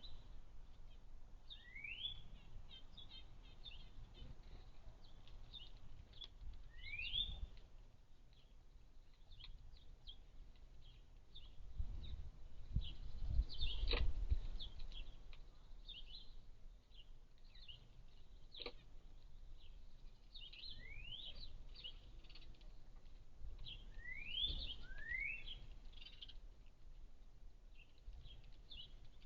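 A flock of sparrows chirping, with many short high chirps throughout and a few rising upswept calls. A low rumble swells around the middle.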